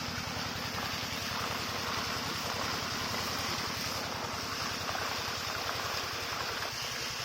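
5HP diesel engine running steadily with an even, rapid beat while driving a water pump, with the rush of pumped water gushing over it.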